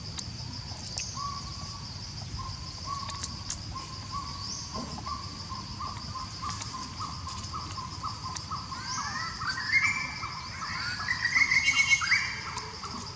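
A bird calling a long series of short whistled notes that come faster, climb in pitch and get louder in the second half, over a steady high-pitched drone.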